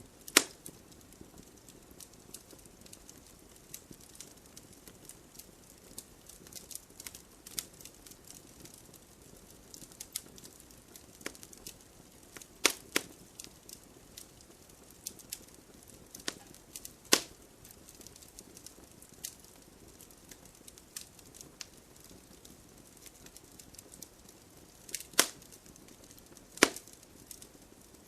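Campfire crackling: wood popping in sharp, irregular snaps over a faint steady hiss of flame, with a few louder pops, two close together about halfway through and two more near the end.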